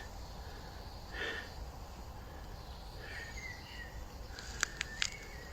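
Quiet woodland ambience with a few faint bird chirps, then three sharp clicks close together near the end.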